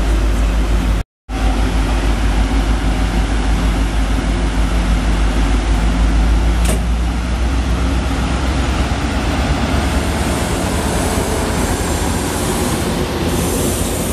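Commuter-rail passenger coaches rolling past at close range: a steady, loud low rumble of wheels on the rails. The sound drops out for an instant about a second in, and a high hiss rises toward the end.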